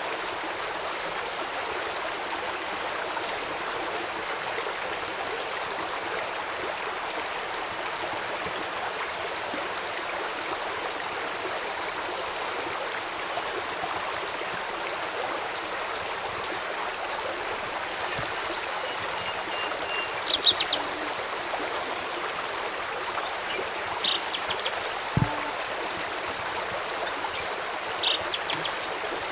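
River water flowing steadily, a constant rushing hiss. In the second half, short high calls and quick clusters of notes from wildlife sound over it several times.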